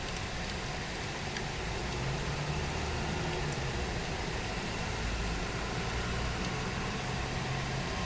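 Steady tropical rain falling, an even hiss. From about two seconds in, a low hum swells underneath it.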